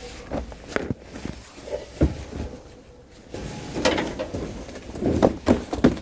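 Irregular knocks, thuds and scuffs, as of objects being handled and set down, louder and closer together in the second half.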